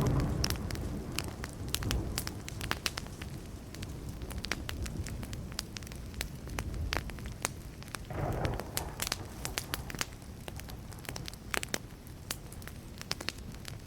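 Wood fire crackling, with frequent sharp pops and snaps of burning wood. A short low rumble swells up about eight seconds in.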